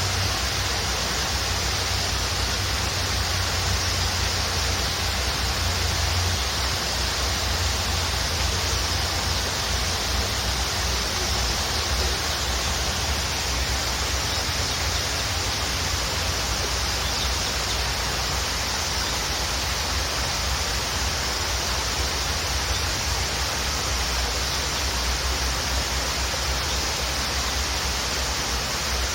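Waterfall: a steady, even rush of falling water with a deep rumble underneath.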